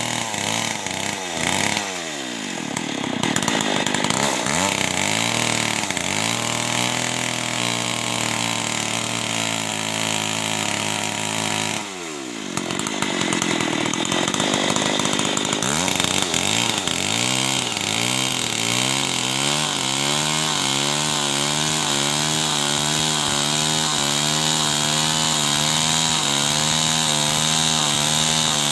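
Two-stroke chainsaw running hard. Its revs drop sharply twice, about a second and a half in and again about twelve seconds in, and climb back each time. In the second half it holds a high, slightly wavering pitch.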